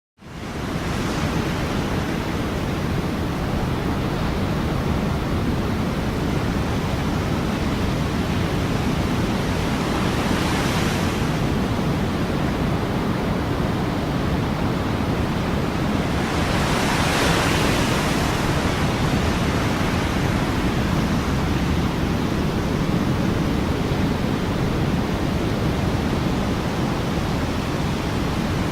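Recorded ocean surf: a steady wash of waves that fades in at the start, with two louder swells breaking about ten and seventeen seconds in.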